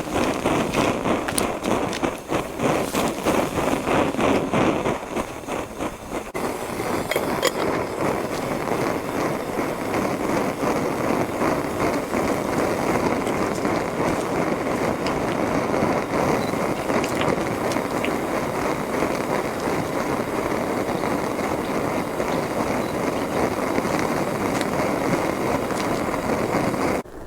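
Goshawk camp stove burning, a steady rushing flame noise puffing away. It pulses rapidly for the first few seconds, then settles into a steadier rush, and cuts off abruptly near the end.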